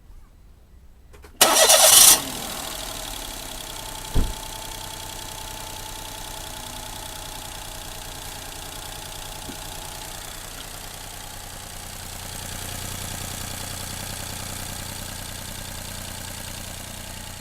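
Daihatsu Tanto's three-cylinder 660 cc engine, its water pump newly replaced, starting with a short crank about a second and a half in, then settling into a steady idle. One low thump a couple of seconds after it starts.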